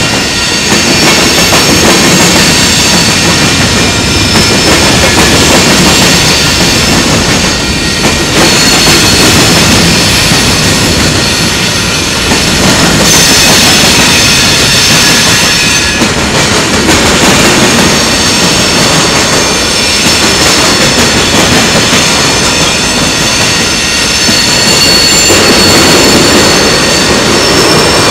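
Freight train of steel tank cars and a covered hopper rolling past, its wheels clattering over the track. A continuous loud rumble is overlaid with steady high-pitched wheel squeal.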